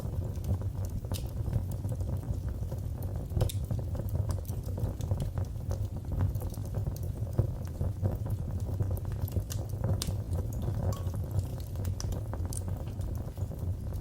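Fireplace fire crackling, with scattered sharp pops and snaps over a low, steady rumble of the flames.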